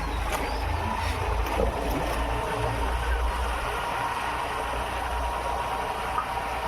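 A vehicle running, with a steady low rumble and a constant whine, as heard while riding in it.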